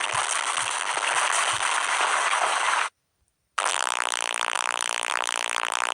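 Two clipped comedy sound effects: about three seconds of a hissing noise with soft low thumps, then, after a short silence, about two seconds of a buzzing, rasping tone. Both cut off abruptly.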